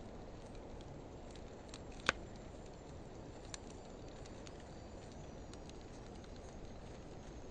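Wood fire of driftwood and dry hardwood burning with a steady low rumble, and sparse crackles and pops. The loudest pop comes about two seconds in, and a smaller one a second and a half later.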